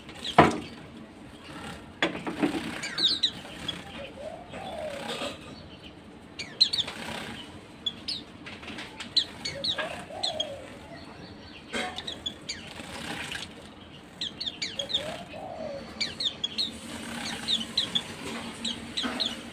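Small white-eyes (pleci) giving short, high chirps in quick clusters, with bursts of wing fluttering as they bathe.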